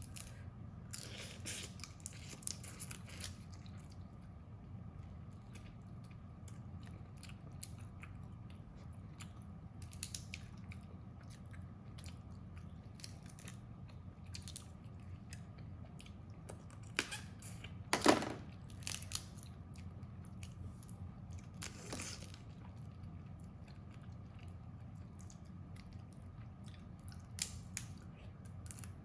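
A person eating crab: biting, crunching shell and chewing, with scattered sharp cracks and clicks, the loudest crack about eighteen seconds in, over a steady low hum.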